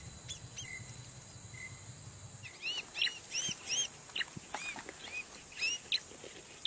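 Bar-winged prinia (ciblek) calls: sparse high chirps at first, then from about two and a half seconds in a fast, busy run of loud arched chip notes, the noisy chatter used to lure wild ciblek.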